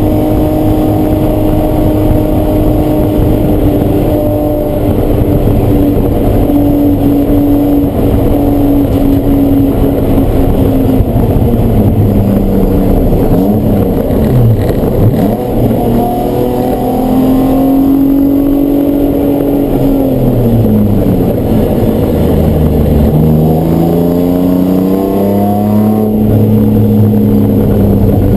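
Race car engine running hard on track. Its pitch sags slowly, dips sharply and comes back about halfway, falls again under braking, then climbs in steps through the gears near the end.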